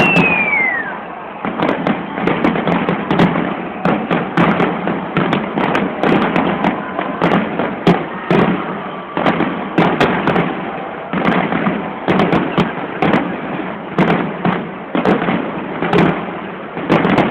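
Large New Year's fireworks display: a continuous barrage of bangs, several a second, over a dense crackle. A falling whistle comes right at the start.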